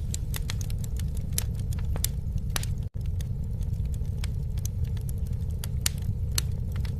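Campfire crackling: irregular sharp pops and snaps over a steady low rumble of burning, with the sound cutting out for an instant about three seconds in.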